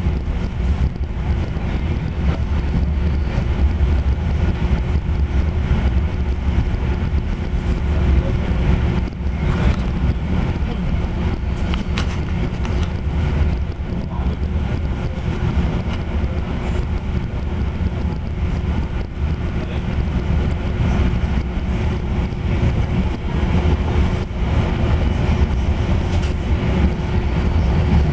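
Moving passenger train heard from inside the car: a steady low rumble of wheels on rails with a faint steady hum and a few light clicks.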